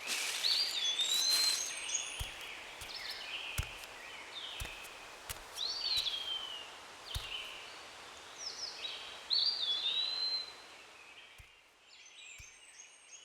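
Birds singing outdoors: repeated whistled phrases that sweep up and then fall, a few seconds apart, over a steady hiss of outdoor ambience, with several soft low thumps in the first half. The background hiss drops away near the end.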